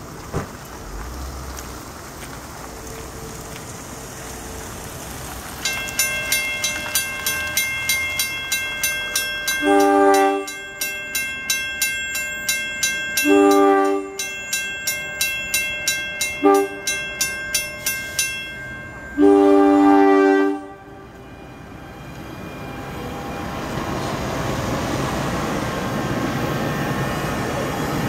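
Grade-crossing warning bell ringing at about two strokes a second, with a train horn sounding the crossing signal over it: long, long, short, long. After the bell stops, the rumble of an NJ Transit Arrow III electric multiple unit builds as it rolls up to and through the crossing.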